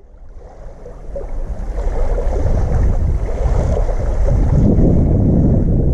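Wind rumbling on the microphone. It builds over the first two seconds and then stays loud and steady.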